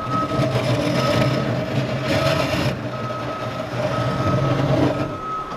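ASV RT-40 compact track loader's diesel engine running, with its backup alarm beeping about once a second as it reverses.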